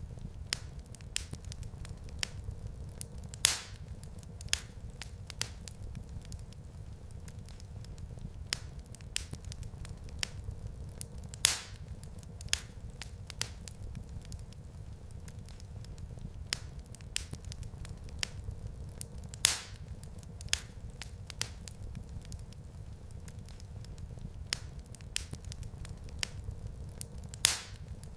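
Wood fire crackling in a fireplace: scattered sharp pops and snaps over a low steady rumble, with a louder pop about every eight seconds.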